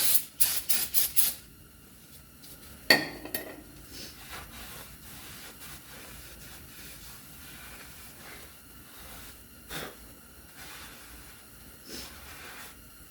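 A few short hissing bursts of aerosol brake parts cleaner sprayed onto the back of a new brake rotor, then a metallic clank that rings briefly, then faint steady rubbing as the rotor is wiped down with a rag.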